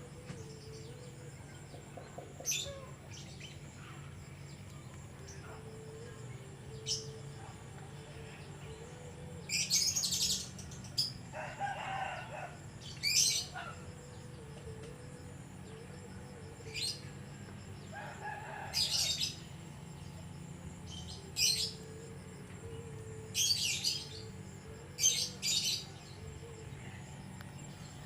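Small nectar-feeding bird, a sunbird, giving short, sharp, high chirps at irregular intervals, some in quick pairs, with two lower, longer calls about halfway in. A steady low hum runs underneath.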